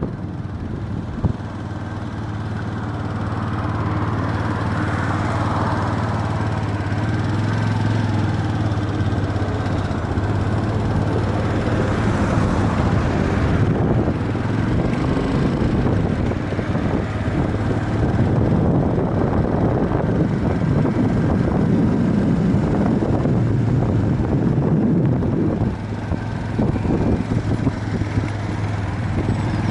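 Viper V250-C cruiser motorcycle engine running steadily.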